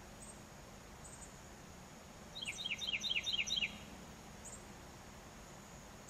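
A wild bird sings a quick run of about six downslurred whistled notes lasting about a second and a half, starting a little over two seconds in. Behind it are a steady faint high insect-like drone, a few short high chirps and a low outdoor background hiss.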